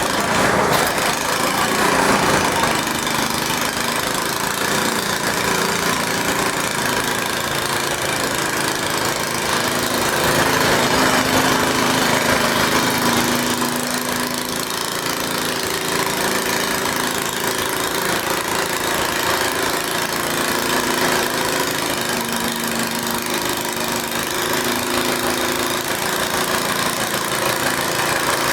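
Garden tractor engine running under load, pulling a weight sled, its pitch wavering up and down.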